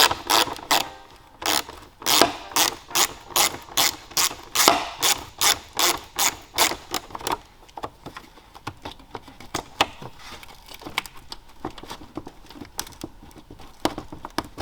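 A quick run of sharp clicks and knocks, about two to three a second for the first half, then sparser and fainter: hand work pulling the stock plastic airbox and intake of a BMW B58 engine free of its clips.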